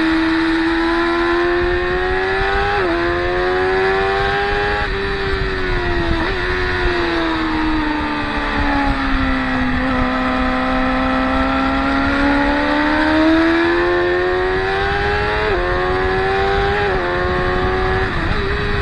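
Sport motorcycle engines at high revs on a race track: the note climbs with sudden dips at the gear changes (about 3, 5, 6, 16 and 17 seconds in), sags slowly as a bike slows in the middle, then climbs again under acceleration.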